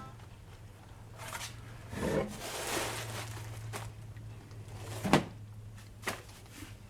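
Light knocks and clatter of parts being handled at a workbench, with one sharper knock about five seconds in, over a steady low hum.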